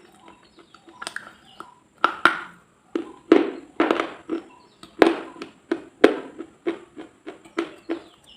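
Close-miked crunching in irregular bursts, a few a second, with smaller crackles between the louder crunches.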